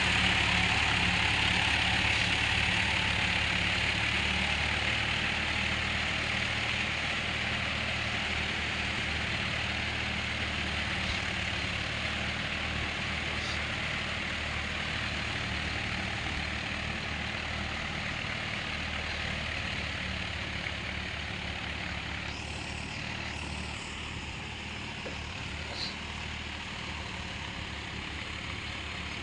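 Tractor diesel engine running steadily at low revs, growing gradually fainter.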